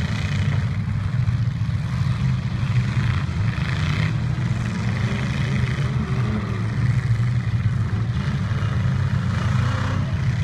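Engines of trucks in a demolition derby running, a loud steady low rumble.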